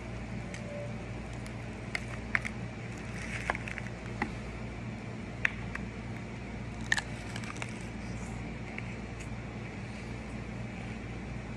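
Scattered small clicks and crinkles from chocolates and their packaging being handled, over a steady low background hum.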